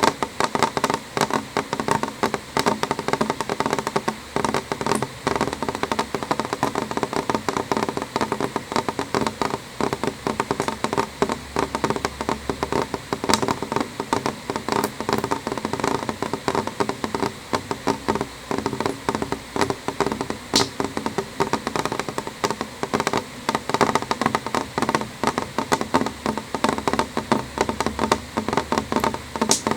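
Rain falling on a window pane: a dense, irregular stream of small drop taps over a steady wash of noise.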